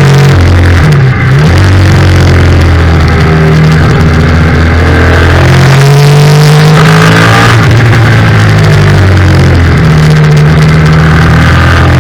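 Yamaha FZ-07 racing motorcycle's parallel-twin engine running hard at high revs. The engine note dips briefly and comes back about a second in, as on a gear change, and changes again around six seconds in before climbing.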